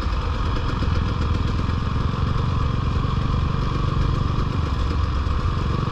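Dirt bike engine running steadily while being ridden, at an even, unchanging pace.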